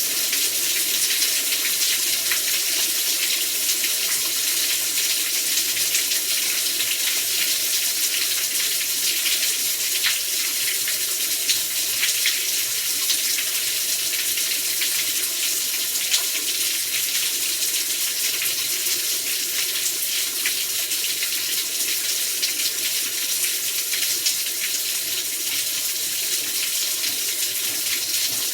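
Heavy rain falling steadily, a dense hiss of many small drop ticks with no let-up.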